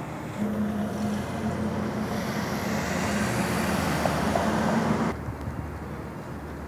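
Street traffic at an intersection: a motor vehicle's engine running close by, growing louder over a few seconds, then cutting off suddenly about five seconds in.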